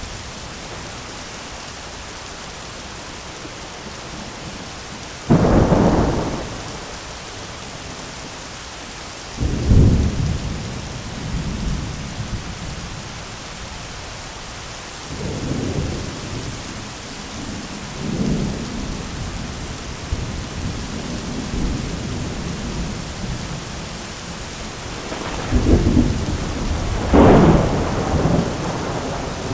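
Thunderstorm: steady rain hiss with repeated cracks and rumbles of thunder, the loudest about five seconds in, near ten seconds, and a pair near the end.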